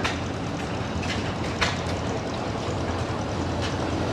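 Steady low rumble of running machinery, with two sharp clicks, one at the start and one about a second and a half in.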